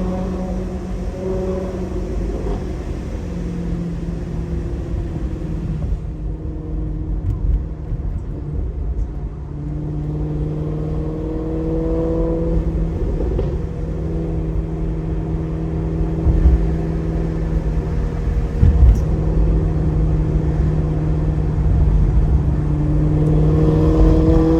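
2008 Maserati GranTurismo's 4.2-litre V8 running through a Kreissieg aftermarket exhaust while driving. The engine note falls away at first, climbs in pitch as the car accelerates about ten seconds in, holds steady at a cruise, then rises again near the end.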